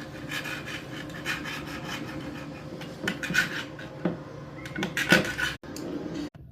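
Rubbing and scraping, with a few louder strokes in the second half. The sound cuts out briefly twice near the end.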